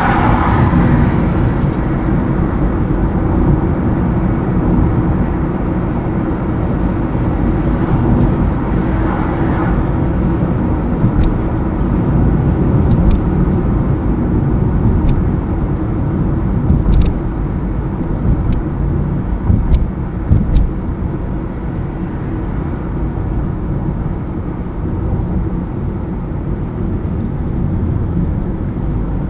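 A car driving along a highway with steady engine and tyre noise. Several short sharp clicks or knocks come between about 11 and 21 seconds in.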